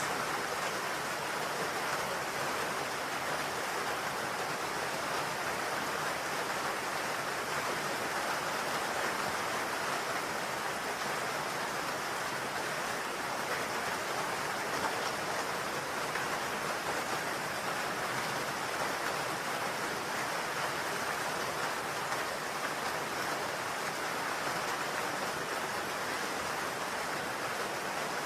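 Steady rain hitting a roof, an even hiss with no single drops or gusts standing out.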